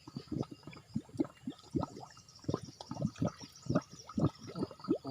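Water spurting from the ground and gurgling in quick, irregular plops, several a second.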